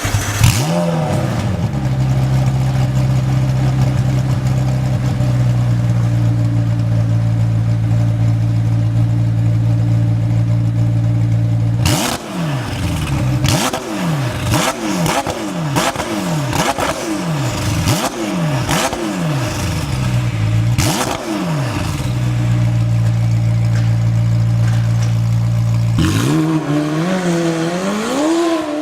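McLaren 720S twin-turbo V8 with a Fi aftermarket exhaust. It gives a quick blip, then idles steadily, then is revved in about eight short quick blips in a row with sharp pops among them. After another steady idle it climbs in revs near the end.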